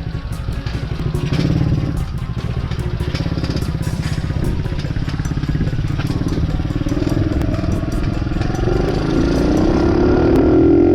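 DB14 dirt bike's single-cylinder engine running under way, its pitch climbing steadily in the last few seconds as it speeds up.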